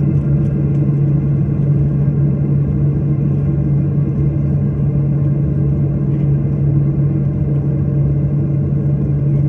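Airliner's jet engines running, heard as a steady loud drone with a strong low hum inside the passenger cabin.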